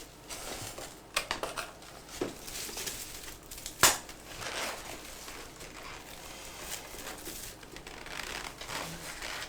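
Light rustling and scattered small clicks of objects being handled, with one sharp knock about four seconds in.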